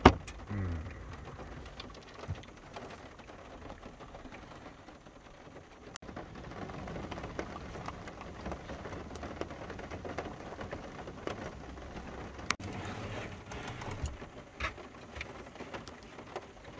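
Rain pattering on a camper van's roof and windscreen, heard from inside the van as a steady hiss dotted with drop ticks. A few sharp clicks stand out, one right at the start and one about twelve seconds in.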